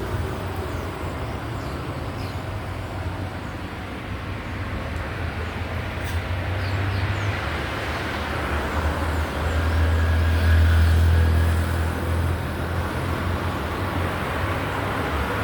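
Steady low rumble and noise of a motor vehicle, swelling louder about ten seconds in and easing off again.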